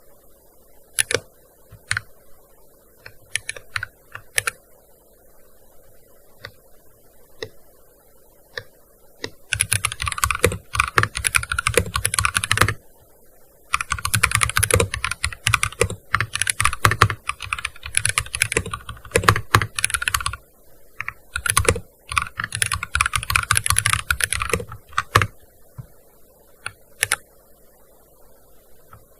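Typing on a gaming keyboard. Single scattered keystrokes for the first several seconds, then three runs of fast continuous typing with short pauses between them, and a few scattered keystrokes near the end.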